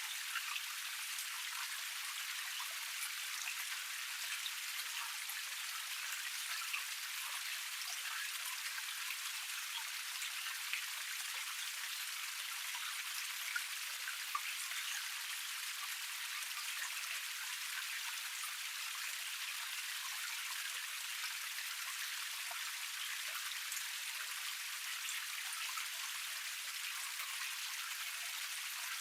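Water running down a small waterfall cascade, a steady splashing hiss full of small droplet splashes.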